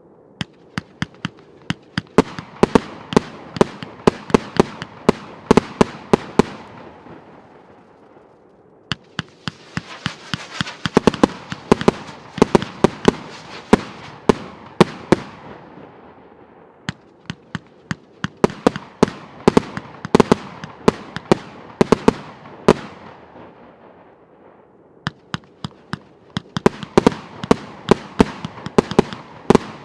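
A 1.2-inch straight-firing firework battery (cake) going off: rapid sharp bangs several a second over a crackling hiss, in four runs of several seconds each with short lulls between them.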